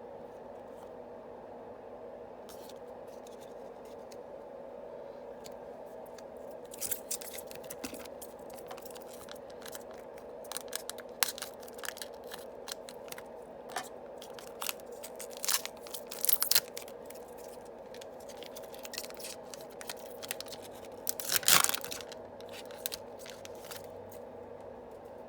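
Yu-Gi-Oh booster pack wrappers being torn open and crinkled, with cards scraping against each other: a run of short, sharp crackles and tears starting about six seconds in, the loudest burst about three quarters of the way through. A steady low hum runs underneath.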